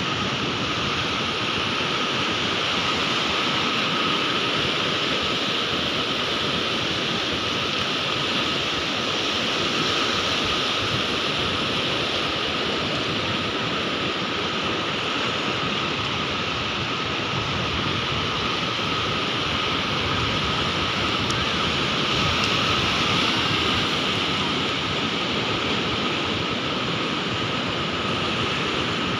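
Sea waves washing continuously, a steady rushing surf with only gentle swells and no distinct breaks, over a faint steady high hum.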